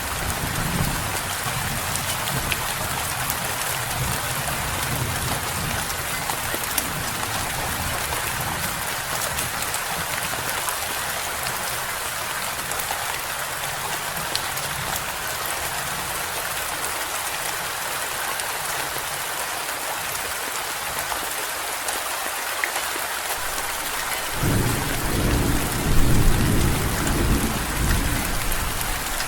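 Steady rain with thunder. A low rumble fades over the first several seconds, and a sudden, louder roll of thunder comes in near the end.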